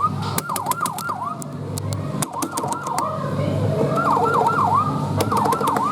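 Falgas fire engine kiddie ride playing its electronic siren sound effect: quick rising-and-falling yelps in short groups, over a low steady hum and scattered clicks.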